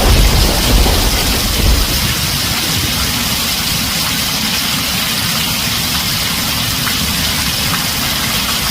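Heavy rain pouring on a tin roof, a steady dense hiss. A low thunder rumble dies away over the first couple of seconds.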